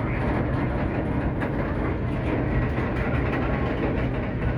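Canadian Pacific Holiday Train running on the rails: a steady, loud rumble of wheels and cars.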